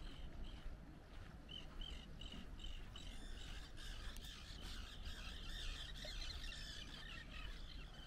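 Small birds calling: a regular series of short, high chirps, about three a second, joined about three seconds in by a busier warbling song, over a steady low rumble.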